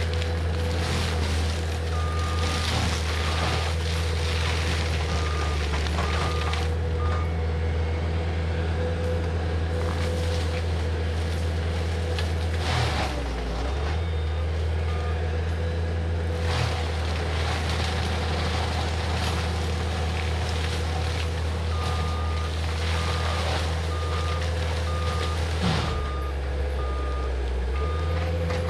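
Diesel engine of a Cat 259D compact track loader running steadily, its note dipping briefly twice. Twice the loader's backup alarm sounds a run of evenly spaced beeps as it reverses: once early and once near the end.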